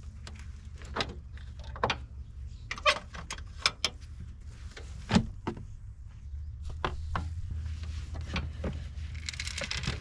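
Scattered clunks and clicks of a corn planter's seed boxes being handled and emptied of seed corn, over a steady low hum, with a short rush of noise near the end.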